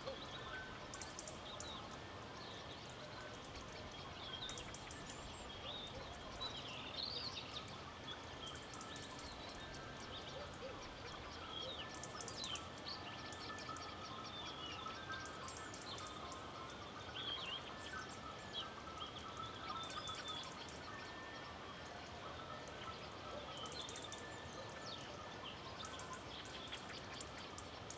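Many small birds chirping and twittering in short calls and rapid trills throughout, over a steady hiss of wind in a rural outdoor setting.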